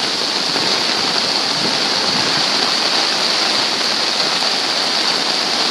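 Loud, steady rushing of floodwater from Coleman Creek, the creek over its banks and pouring through a backyard against a house.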